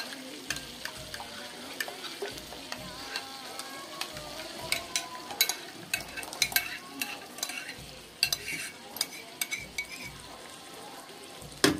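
Chicken masala sizzling in a pan while a yogurt and spice mix is scraped out of a glass bowl into it with a metal fork, giving many short clicks and scrapes of fork on glass over the sizzle, with a louder knock near the end.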